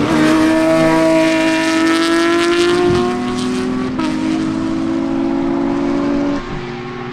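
Performance car engine pulling under load, its note climbing slowly, with sudden steps in pitch about three and four seconds in and again near the end.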